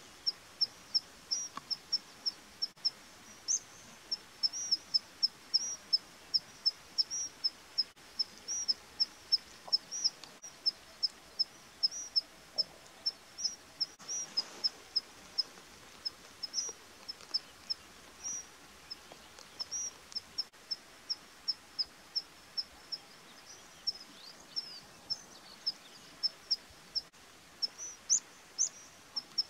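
A small bird calling a short, high chirp over and over at about three a second, some notes louder than others, over a faint background hiss.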